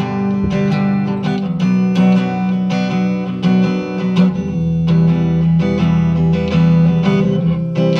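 Music: a guitar being strummed in a steady rhythm, without vocals, over sustained low notes.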